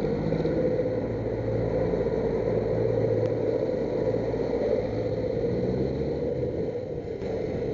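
Motorcycle engine running at low road speed, its note shifting every second or two, over steady road noise.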